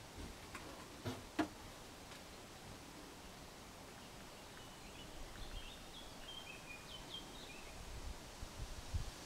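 Quiet outdoor ambience in which a small bird gives a quick series of short, high chirps in the middle. Two sharp knocks sound about a second in, and a few low thumps near the end.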